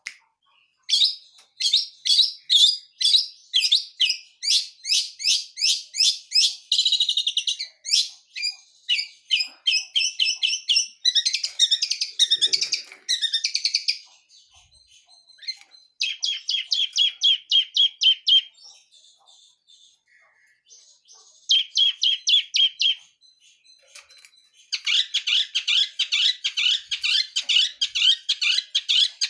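Long-tailed shrike (cendet) singing in long runs of quickly repeated sharp notes, about three or four a second and speeding up at times, broken by short pauses. Its song is full of mimicked calls of other birds.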